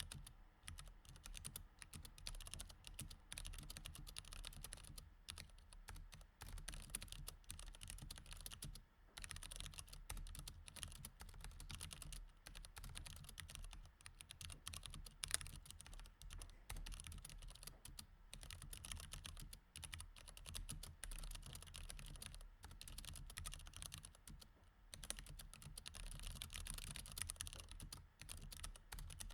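Continuous typing on a mechanical keyboard with Cherry MX Red switches: a steady run of quick key clicks, broken by a few brief pauses.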